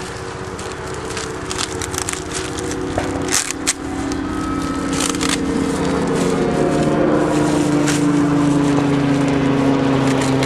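Plastic shrink-wrap crinkling and crackling as it is torn and pulled off. A steady mechanical hum comes up about halfway through and stays.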